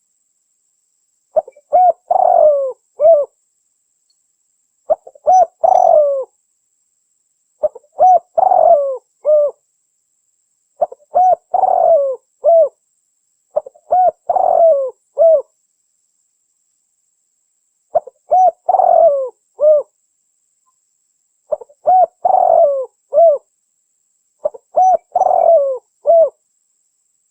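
Spotted dove (tekukur) cooing, played as a lure call: a short multi-note coo phrase repeated about every three seconds, eight times, with dead silence between phrases.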